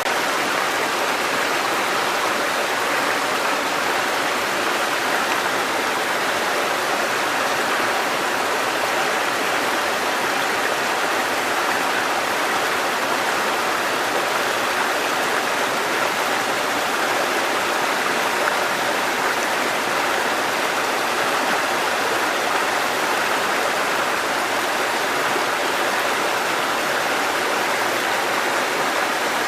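Mountain stream water cascading over rocks: a steady, even rush.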